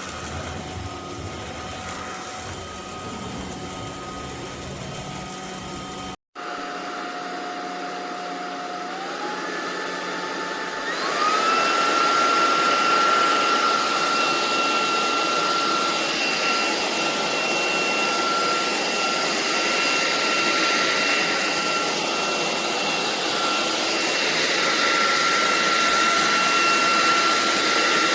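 SunSare X11 cordless stick vacuum running with a steady high motor whine. Its pitch steps up twice, about a third of the way in, and gets louder at the second step as the motor speeds up.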